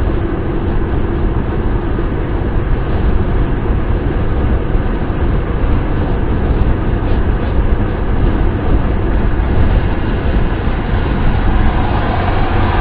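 Steady wind and road noise of a car being driven, an even rushing sound with most weight in the low end and no breaks or changes.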